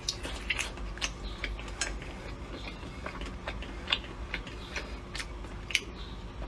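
Close-up eating sounds of someone chewing air-fried roasted gluten skewers: irregular sharp mouth clicks, a few a second, over a faint steady hum.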